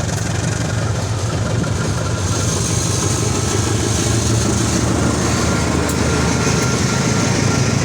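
Diesel train locomotive running steadily with a low engine hum.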